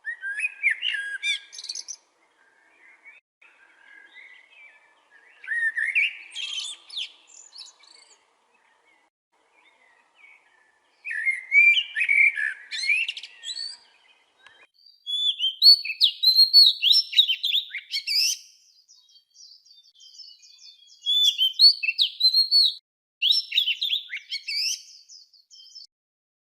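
Songbirds singing in bursts of chirping song a couple of seconds long, repeating every few seconds with quiet gaps between.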